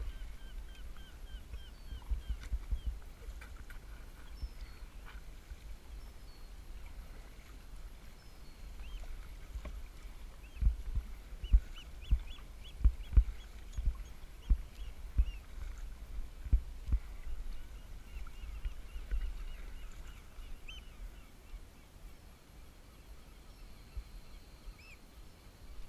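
Birds calling in quick runs of short, high notes, over a steady low rumble. In the middle comes a run of about a dozen low thumps, less than a second apart, which are the loudest sounds.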